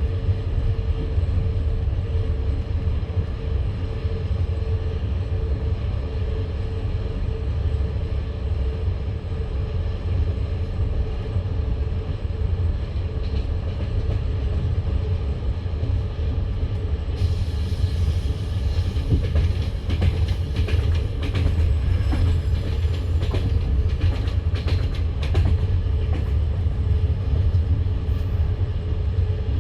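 Passenger train running, heard from a carriage: a steady low rumble of the wheels with a faint steady tone. About halfway through it turns brighter and hissier, with a run of sharp clicks and knocks from the wheels on the track.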